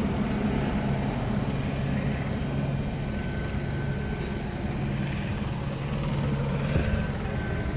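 Steady low engine drone running without a break, with the noise of street traffic.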